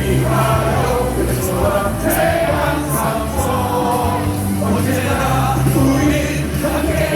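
Baseball stadium crowd singing a cheer song in unison over loud amplified music, with a steady beat and held bass notes.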